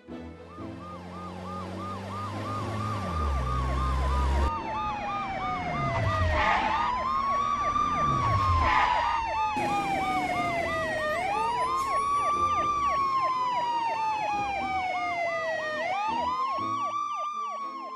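Emergency-vehicle sirens, a slow rising-and-falling wail together with a fast warbling yelp, as an emergency vehicle comes to help. A low rumble comes near the start, and two falling whooshes come in the middle.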